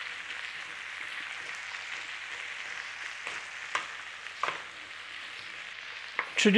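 Sliced potatoes, swede and onion sizzling steadily as they fry in bacon fat, stirred with a wooden spatula that knocks against the pan a few times.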